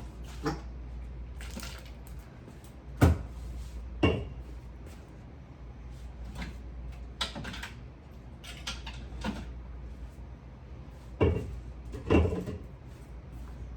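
Scattered knocks and clatter of items, shelves and drawers being handled while a refrigerator is cleaned out, with four louder thumps, over a steady low hum.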